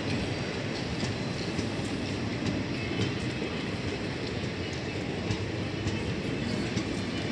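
Passenger train running on the track: a steady rumble of wheels on rails with scattered faint clicks.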